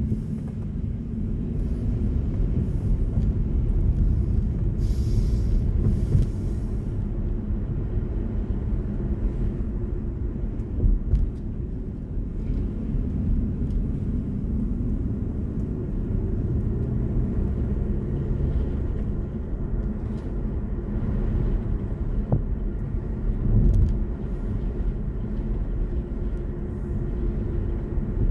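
Steady low road and tyre rumble of a BMW i4 M50, an electric car with no engine note, while driving, swelling briefly louder twice.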